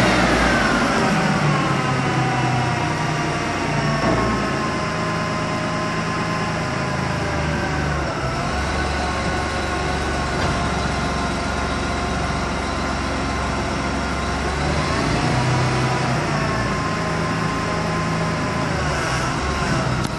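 Ford Taurus engine running with the hood up, its speed falling over the first couple of seconds from a fast start-up idle and then idling with small rises and dips. The engine mounts have torn, so the engine lifts and rocks in the bay as it runs.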